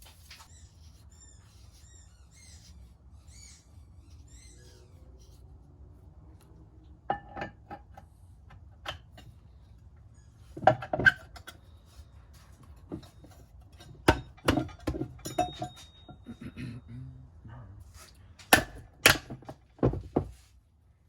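Metal differential parts and tools clinking and knocking against each other on a workbench: scattered sharp knocks that begin about a third of the way in and come in small clusters through the rest.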